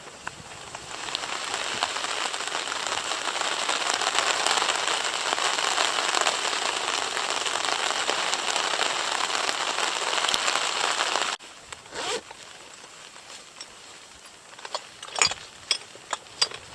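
Steady rain hissing, building over the first couple of seconds and cutting off abruptly about eleven seconds in. After that only a few light ticks and clicks are heard.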